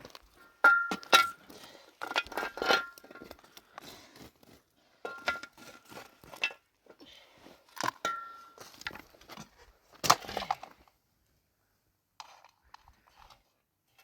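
Hard objects clinking and knocking together in an irregular series of strikes, several of them ringing briefly with a clear tone. The strikes stop for about a second after the middle, then a few faint clicks follow.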